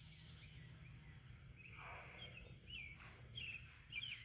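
Faint birds chirping, a run of short calls from about halfway through, over a low steady hum, with a couple of light taps.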